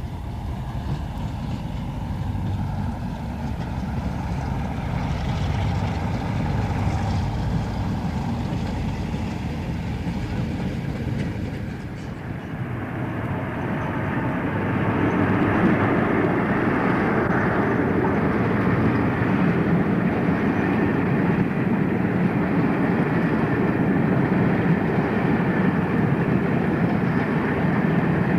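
A railway train running by: a steady rumble of wheels and engine. The sound changes about halfway through and is louder from then on.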